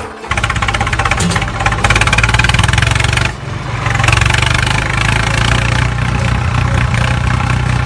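A small motor running with a fast, even rattling buzz and a steady low hum. It dips briefly about three seconds in, then runs on.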